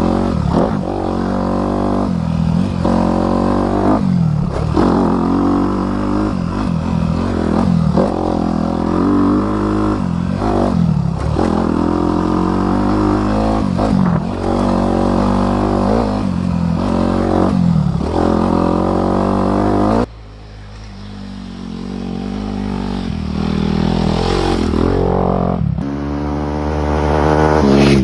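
Honda CRF250R dirt bike's single-cylinder four-stroke engine being ridden hard, the pitch rising and falling every second or two as the throttle is worked and gears are shifted. About two-thirds through the sound drops abruptly, then the engine note climbs steadily to a high rev near the end.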